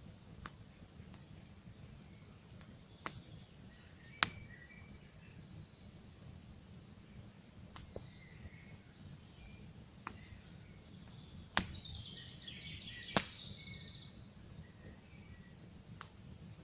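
Campfire crackling, with sharp single pops every second or two, the loudest about four, eleven and a half and thirteen seconds in, over a low steady rumble. Small birds chirp and sing in the background.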